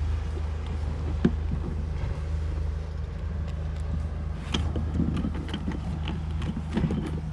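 An engine running steadily with a low, even hum, with a few scattered clicks and knocks on top.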